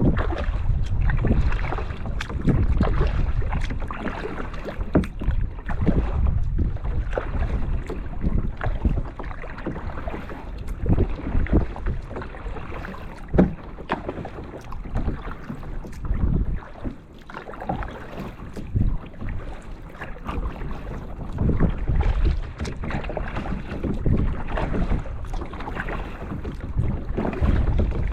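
Kayak paddling: the paddle dipping and splashing in calm water, with many small irregular clicks and knocks. Wind buffets the microphone in gusts.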